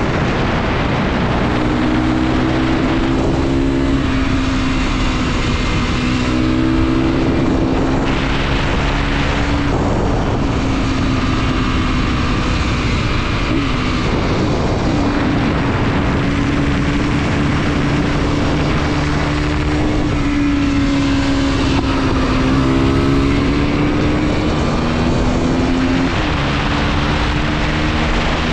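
Mondial SMX 125's single-cylinder four-stroke engine running under load during an onboard ride, its pitch climbing and then dropping every few seconds as it works through the gears and the throttle, with steady wind and road noise underneath.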